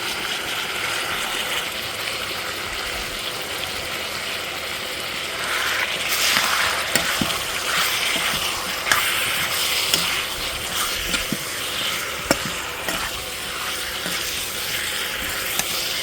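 Chicken pieces sizzling as they fry with spices in a pan, stirred so that the utensil clicks and scrapes now and then against the pan. The sizzle grows louder about six seconds in.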